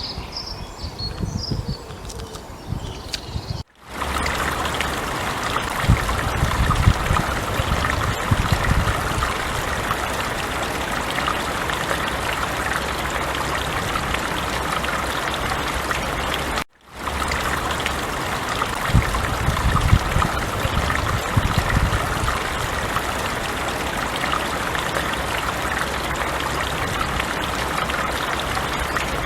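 Forest stream rushing and babbling steadily, with a low rumble swelling in twice. In the opening few seconds, before a cut, it is quieter with small birds chirping.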